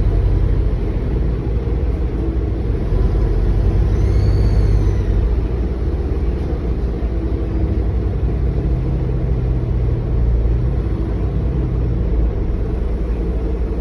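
Bus engine running with a steady low rumble; about four seconds in, a faint high turbocharger whine rises and falls briefly, the strange turbo whine this bus is known for.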